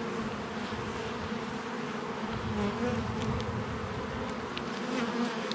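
Honeybees buzzing in a steady hum around an opened hive with its frames out.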